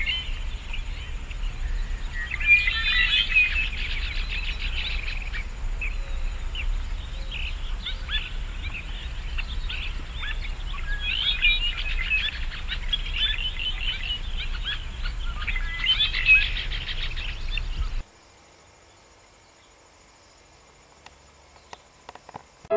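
Birds chirping, many short high calls in quick runs, over a steady low rumble. Near the end the sound cuts off suddenly, leaving almost nothing but a few faint clicks.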